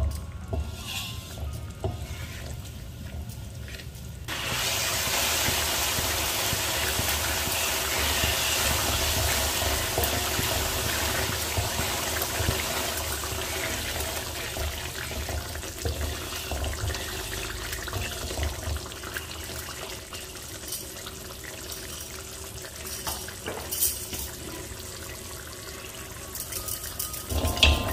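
Chili spice paste frying in oil in a metal wok while a wooden spoon stirs it. About four seconds in, a loud sizzling hiss suddenly starts and slowly dies down to a bubbling fry. Near the end there is a short clatter as cooked mutton pieces drop in from a metal strainer.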